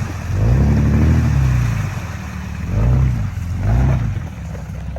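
Off-road 4x4's engine revving in three surges, rising and falling, as the driver makes repeated attempts to climb a trail obstacle.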